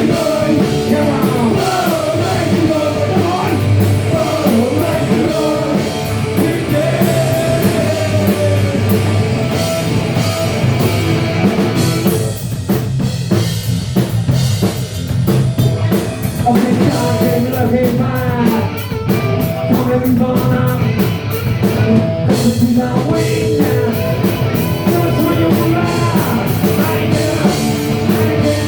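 Punk rock band playing live: two distorted electric guitars, bass guitar and drum kit, loud and driving. About twelve seconds in the band briefly thins out before the full sound comes back.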